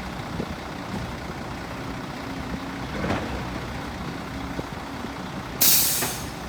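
Heavy diesel machinery running steadily, with a few knocks and a loud burst of hissing about five and a half seconds in.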